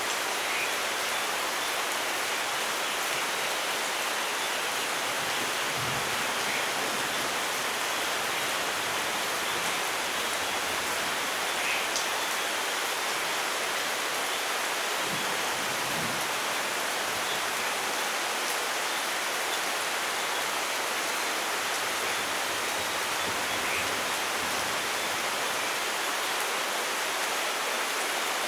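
Steady rainfall, a constant even hiss of rain with no thunder. A few faint short chirps rise now and then above it.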